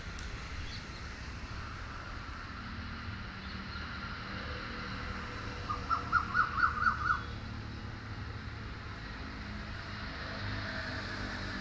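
A bird calls a quick run of about seven short, sharp notes about six seconds in, over a steady low rumble.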